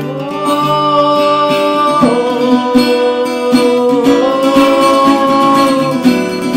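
Acoustic guitar strummed with a wordless sung melody over it: a few long held notes, the first changing about two seconds in.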